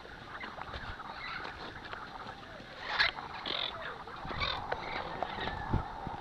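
Parrots squawking and chattering, with a loud squawk about halfway through and another shortly after.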